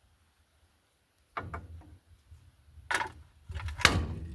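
A few clanking knocks of tools and metal suspension parts: one about a second and a half in, then two near the end, the last the loudest.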